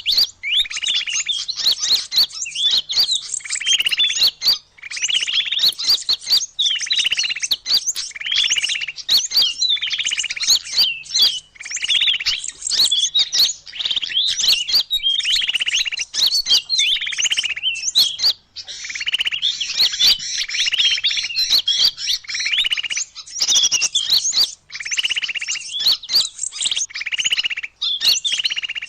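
Small birds chirping in a busy, continuous stream, a bird-lure (pikat) call recording meant to draw small birds in. Rapid high chirps run over a buzzy note that repeats about every one and a half to two seconds.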